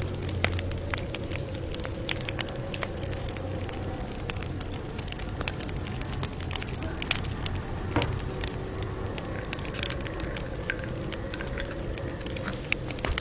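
Wood campfire crackling, with sharp pops at irregular moments over a steady low rush of burning.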